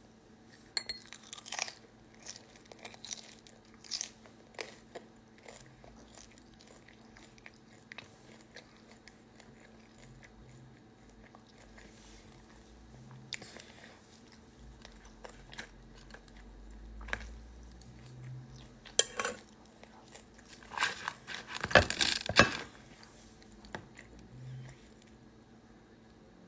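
Close-up eating sounds: chewing and crunching, with scattered small clicks. A louder clatter comes about three quarters of the way through.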